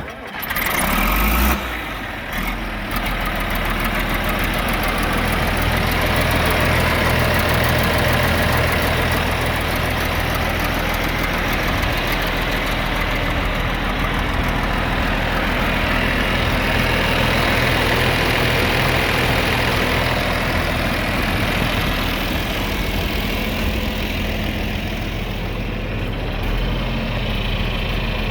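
John Deere 4230 tractor's six-cylinder diesel engine running at a steady idle, louder for the first couple of seconds.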